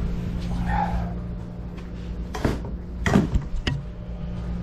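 A few sharp knocks and clicks, like hard parts being handled, about two and a half to three and a half seconds in, over a steady low hum.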